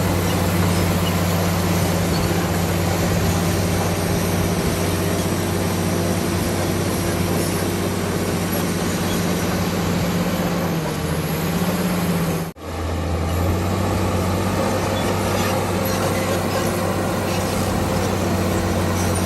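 Komatsu D65PX bulldozer's diesel engine running steadily under work, a low drone with an even pitch. The sound drops out for an instant about twelve and a half seconds in.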